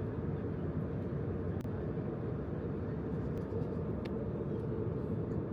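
Airliner cabin noise in flight: a steady low rush of engine and airflow noise, with a couple of faint clicks.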